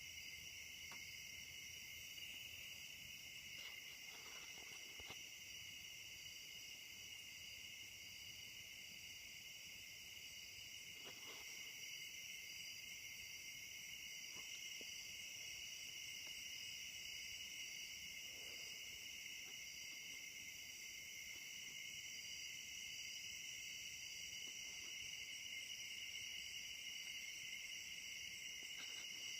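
Nighttime chorus of insects: a steady, high-pitched, continuous trilling in two pitch layers that never lets up, with a few faint, brief sounds underneath.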